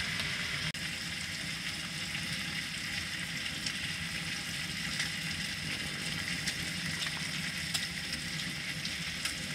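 Honeycomb-cut pork belly sizzling as it grills on a wood stove: a steady frying hiss with scattered small pops and spits.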